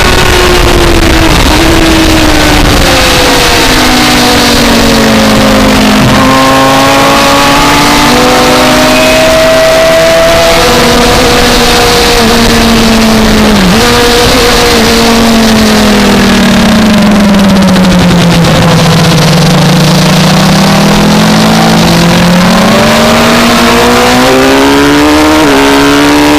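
Inline-four engine of a 2004 Suzuki GSX-R600 sports bike heard on board, with wind rushing past. The engine note slides slowly down and back up with the throttle, steps up sharply about six seconds in as a gear is changed down, dips briefly midway, and climbs again near the end.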